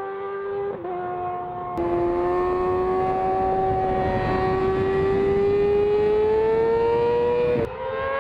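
Yamaha R6 inline-four engine at high revs under load. The pitch dips briefly about a second and two seconds in, gets louder after the second dip, then climbs slowly for several seconds before the revs drop sharply near the end.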